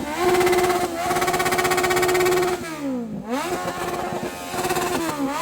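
Motorcycle engine revving: held steady at high revs, then the revs drop and climb again about three seconds in, with smaller dips and rises near the end.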